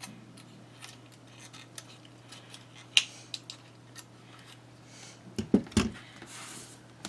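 Small handling sounds of paper-craft work at a table: light clicks and taps, a sharper click about three seconds in, a few soft knocks and a brief rubbing near the end, over a faint steady low hum.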